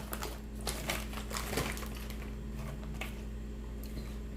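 Mouth-close crunching of cheddar jalapeño chips: a quick run of sharp crackly crunches in the first second and a half, then a few scattered crunches, over a steady low hum.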